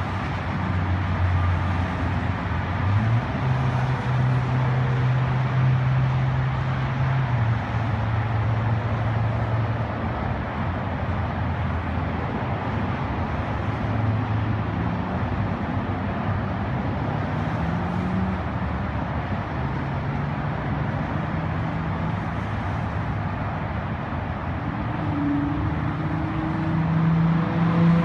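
Nissan 350Z's 3.5-litre V6 with a straight-piped, muffler-deleted exhaust, droning steadily while the car is driven, over a steady hiss of road noise. The engine note steps up and down in pitch a few times and rises near the end as the car accelerates.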